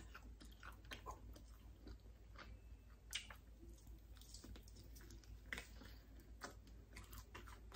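Faint chewing and biting on a bone-in barbecue chicken wing, with scattered short clicks from the mouth and fingers.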